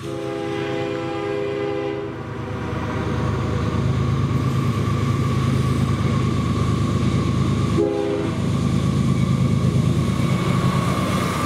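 CSX double-stack intermodal freight train approaching, its diesel locomotive's air horn sounding one long blast of about two seconds and then a short one about eight seconds in, over the low rumble of the locomotive. A steady high whine builds from about six seconds in as the train draws near.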